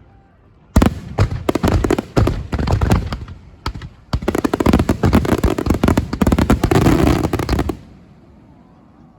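Aerial fireworks bursting in two rapid barrages of overlapping reports, many a second: the first about a second in, the second from about four seconds to near eight, then fading away.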